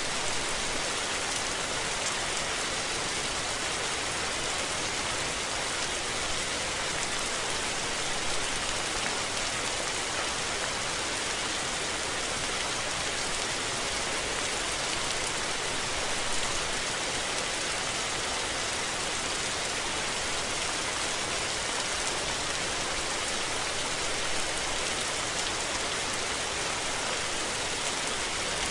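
Steady rain falling on surfaces, an even hiss with fine droplet detail and no let-up.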